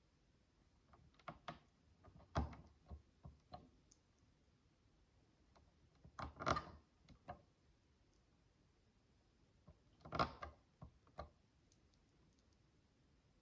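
Small plastic micro building bricks clicking and tapping as they are handled and pressed together, in a few short clusters of light clicks, the busiest about two and a half, six and a half and ten seconds in.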